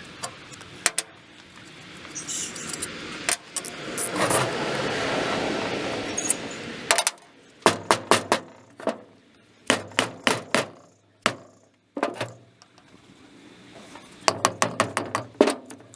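Metal clinking and clanking of hand tools and pump parts while the discharge flange is unbolted from a Blackmer fuel pump. A few seconds of rough, scraping noise come first, then a run of sharp, irregular clinks that bunch up near the end.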